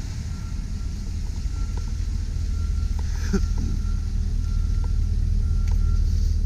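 Pickup truck engine idling steadily with the turn-signal indicator sounding a short tone at a regular pace as the left blinker flashes. A single knock sounds about halfway through.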